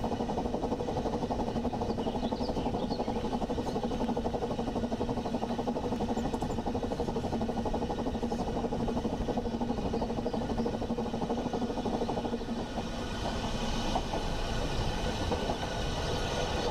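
A train running steadily: a constant low hum under a fast, even clatter, dipping briefly about twelve seconds in.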